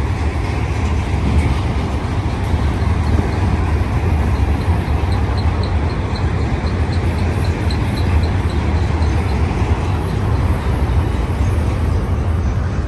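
Freight cars of a long BNSF manifest train rolling past: a steady, loud rumble of steel wheels on rail, with a light high ticking about three times a second through the middle.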